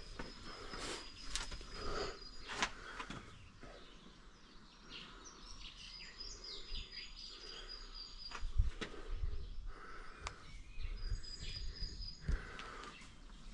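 Small birds singing: high, thin held whistles that recur every few seconds, mixed with short chirps, over a faint outdoor background with a few scattered sharp taps.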